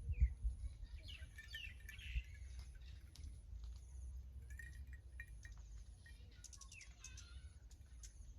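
Small birds chirping in short bursts, twice, over a low rumble of wind on the microphone, with a faint high pulsing tone behind.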